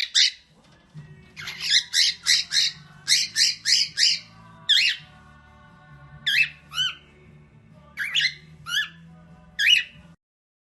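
Parrot squawking in short, sharp, high calls, several in quick runs. The calls come in a run of about seven early on, then in small groups, and stop shortly before the end.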